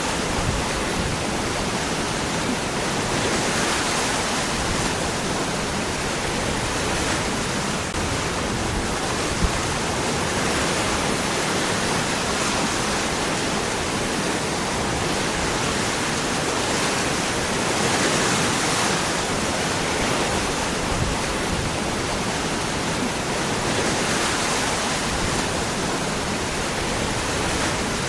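Waterfall: water falling and rushing over rocks in a steady, even roar with no pauses.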